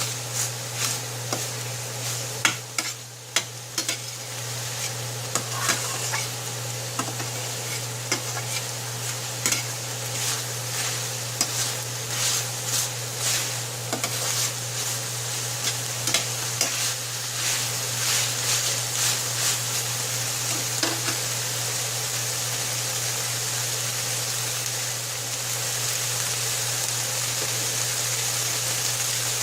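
Ground turkey sizzling in a frying pan with olive oil, garlic and onion as its water cooks off so the meat can brown, stirred and scraped with a utensil. Frequent clicks and scrapes of stirring come through the first two-thirds, then it settles to a steadier sizzle.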